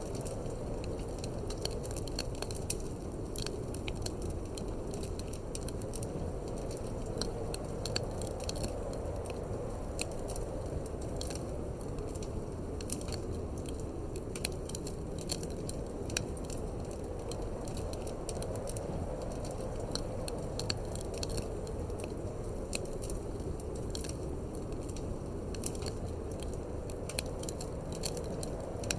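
Wood fire crackling in a fireplace, with frequent small sharp pops at irregular intervals over a steady low rush of wind.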